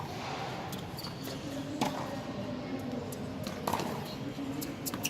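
Tennis ball being hit back and forth in a rally, with three sharp pops of ball on racket or court about two seconds apart.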